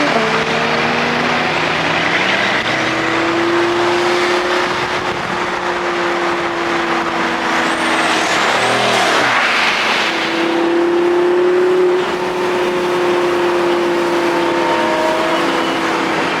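Car engine running steadily while driving, with road noise; its pitch steps now and then. A brief surge of rushing noise comes around nine seconds in.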